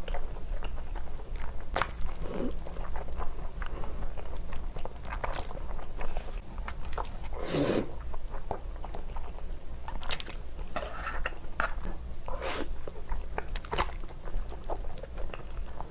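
Close-miked eating: irregular biting, crunching and wet chewing with sharp mouth clicks.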